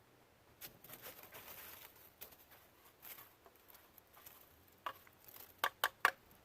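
Hand-cleaning noises: a short stretch of scrubbing, scattered light taps, and a quick run of three sharp clicks or knocks near the end.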